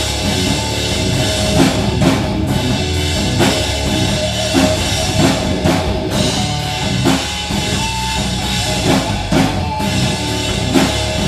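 Live rock band playing an instrumental stretch: full drum kit with bass drum driving a steady beat under distorted electric guitar and bass.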